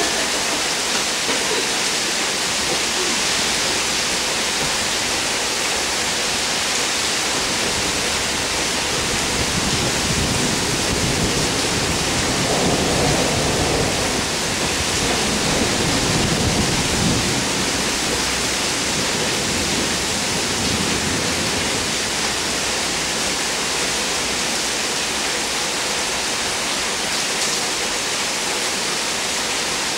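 Heavy rain pouring down steadily. A low rumble of thunder swells and fades about midway.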